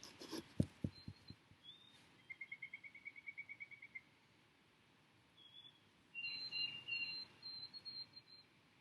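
Small songbirds calling: a rapid, even trill about two seconds in, then a run of short high chirps near the end. A few soft knocks in the first second or so.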